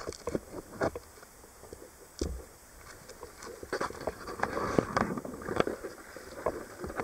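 Shallow sea water lapping against a jetty and shore, in irregular soft splashes and knocks.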